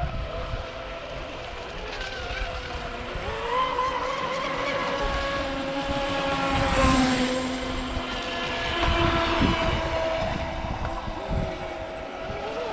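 Radio-controlled boats running on the water, their motors giving several steady whines at different pitches that rise and fall as the boats speed up and slow down, loudest about seven seconds in.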